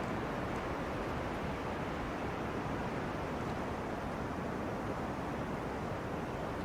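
Wind rushing through tree crowns: a steady, even rush of leaves and branches with no distinct gusts.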